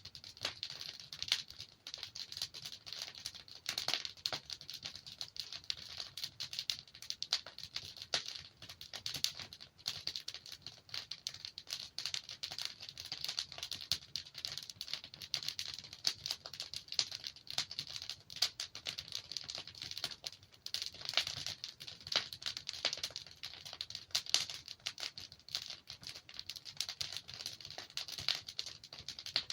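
Wood fire burning in a fireplace: dense, irregular crackling and small pops over a steady hiss.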